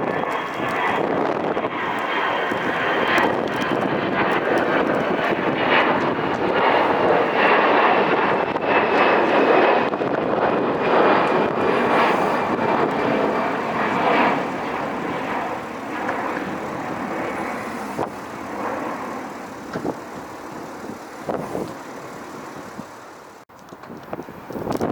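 Airliner taking off, its engine roar building to a peak about ten seconds in and then fading away, with a high whine sliding slowly down in pitch.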